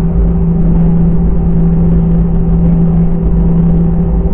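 Airliner cabin noise: a loud, steady engine drone with a constant low hum over a rumble.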